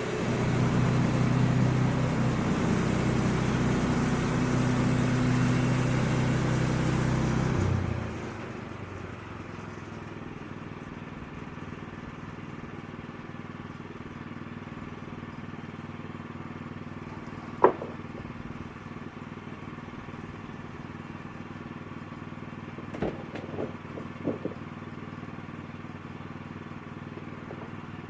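Sawmill running loud with a hiss for about eight seconds as it cuts through a log, then dropping suddenly to a quieter steady running sound. A single sharp knock comes about midway and a few knocks follow later.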